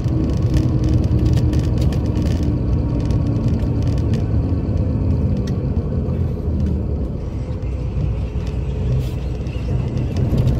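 Scania K82SR coach's diesel engine running steadily, its pitch shifting slightly in the first few seconds.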